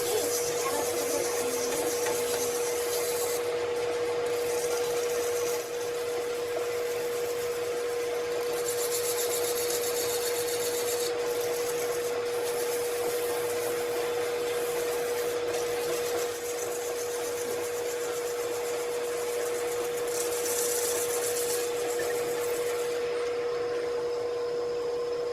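A machine running steadily, with a constant whine and a rasping noise over it that swells and fades every few seconds.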